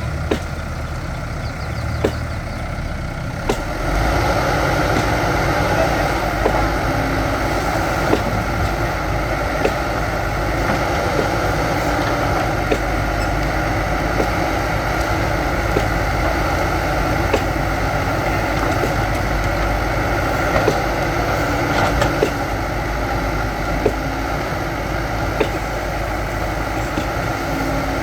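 Diesel engine of a backhoe loader at work, rising to a higher, steady level about three and a half seconds in. Short sharp clicks recur about every second and a half over the engine.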